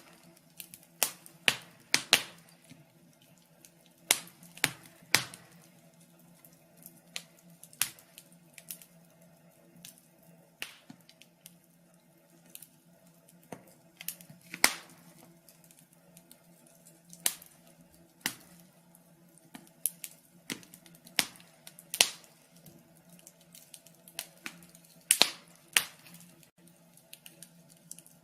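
Wood fire crackling in a fireplace: irregular sharp pops and snaps, one to three every second or so, over a faint steady low hum.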